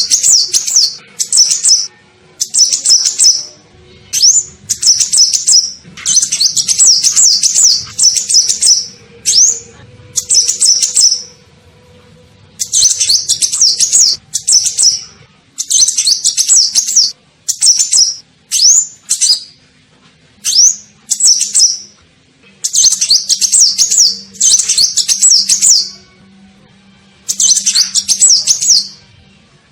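Sunbird ('kolibri ninja') calling: repeated bursts of rapid, high, sweeping chirps, each lasting half a second to two seconds with short pauses between them. This is a lure call meant to draw in wild birds of the same kind.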